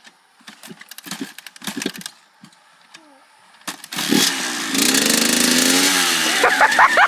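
Dirt bike being started: a few clicks and knocks of handling the bike, then about four seconds in the engine fires and runs loud, its pitch rising and falling as the throttle is worked.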